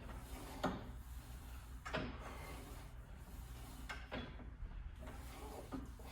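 Four dull knocks, one or two seconds apart, over a low steady hum.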